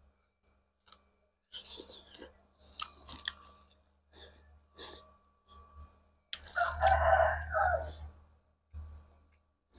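A person chewing a mouthful of chicken curry and sticky rice, with irregular short crunches and bites, and a longer, louder burst of mouth noise about six seconds in.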